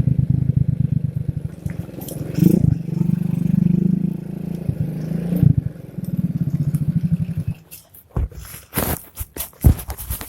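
Small single-cylinder motorcycle engine, a Yamaha Vega R, running at low speed and revved briefly twice, then cut off about seven and a half seconds in. After it stops there is rustling, scraping and knocking close to the microphone.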